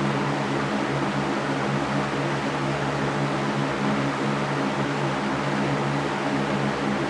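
Electric fan running steadily: an even airy rush with a low steady hum from its motor.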